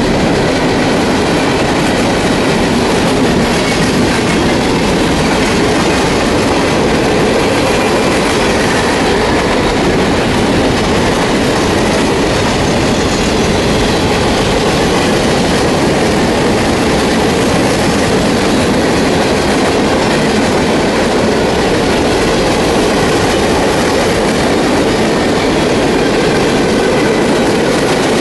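Norfolk Southern freight train of open hopper cars rolling past, its wheels on the rails making a steady, loud rumble that does not let up.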